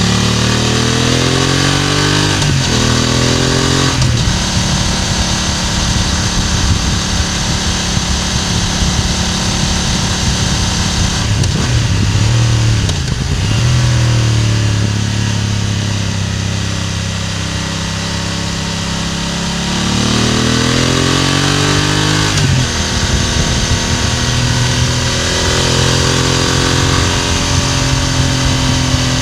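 BMW F900R's parallel-twin engine heard close up at the exhaust while riding. The revs climb and drop sharply at upshifts, twice, with a steadier stretch of cruising in between.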